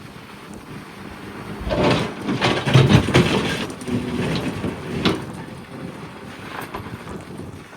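Sumitomo excavator's bucket crunching and scraping into rock, a dense run of cracks and crunches from about two seconds in to about five seconds in, over the machine's steady engine hum.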